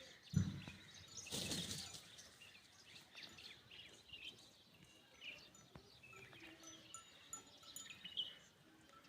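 Small birds chirping faintly, many short high chirps scattered through. Near the start there is a low thump, then a short rustling burst.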